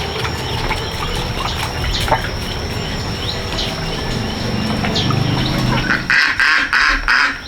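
Birds calling: scattered short chirps, then a run of about four loud, raspy calls near the end. A steady high-pitched tone runs underneath.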